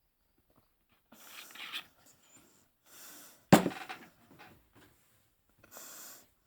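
A person's loud, hard breaths in separate bursts, with one sharp sudden splutter or cough about three and a half seconds in.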